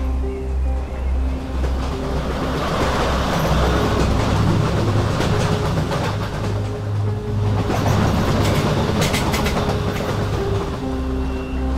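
A train passing at speed: a low rumble of wheels on rail with clickety-clack that builds through the middle and peaks with a cluster of sharp clicks near the end, over steady background music.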